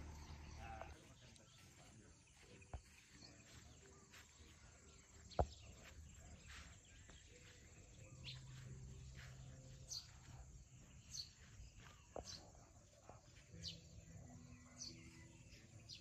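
Faint open-air ambience with birds giving short high chirps now and then, more often in the second half. A single sharp click about five seconds in.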